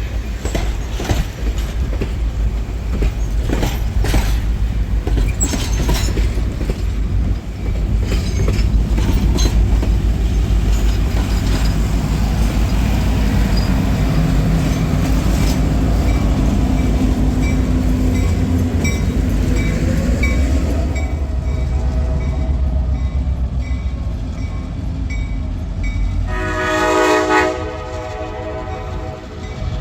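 Passenger train running on the rails with a steady low rumble and the clicking of wheels over rail joints. Near the end the locomotive's horn sounds one blast of about a second and a half.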